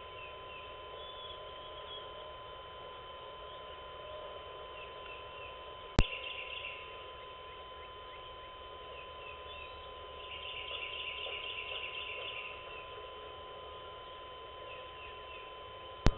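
Songbirds chirping faintly, with one rapid trill of quickly repeated notes lasting about two seconds in the middle, over a steady thin tone. Two sharp clicks, about ten seconds apart, are the loudest sounds.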